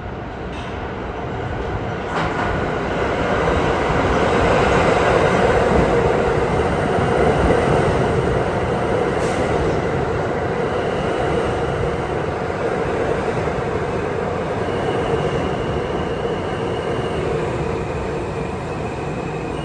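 New York City subway train running with a steady rumble that builds over the first few seconds and then slowly eases. From about eleven seconds in, its wheels squeal with thin high tones.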